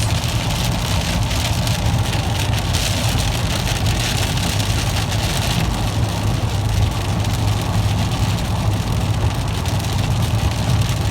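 Rain on a vehicle, an even hiss over a steady low engine and road rumble.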